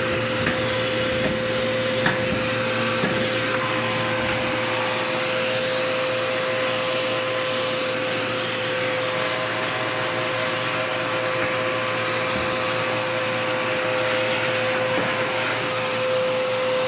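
Dirt Devil Power Max vacuum cleaner running steadily, its motor giving a constant whine over the rush of air, with a small click about two seconds in.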